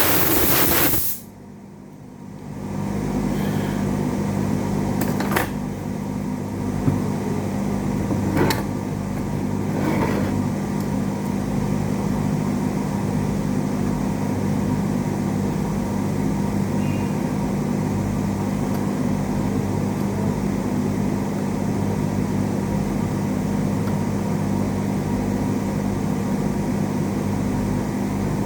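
A short loud hiss, then a steady low electrical hum from running equipment, with a few light clicks.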